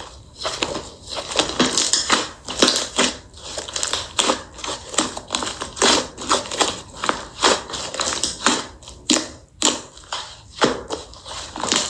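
Slime being squeezed and pressed by hand, making quick, irregular crackling and popping clicks.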